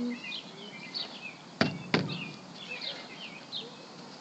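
Small birds chirping repeatedly, with two sharp knocks about a second and a half in, a third of a second apart.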